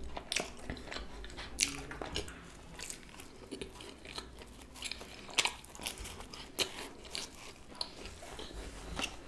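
A person chewing a mouthful of pizza close to the microphone: irregular wet chewing clicks.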